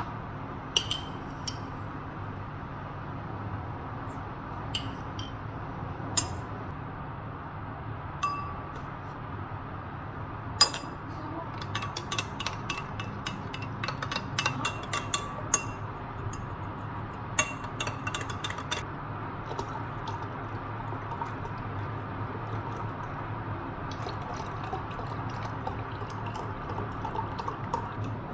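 Glass and ceramic tableware clinking and knocking a number of times, some strikes ringing briefly, over a steady low hum.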